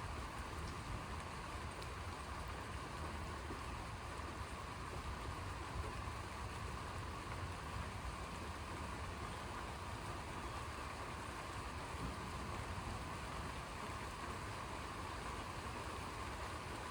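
Steady rain falling during a thunderstorm: an even hiss with a low rumble underneath and no distinct thunderclap.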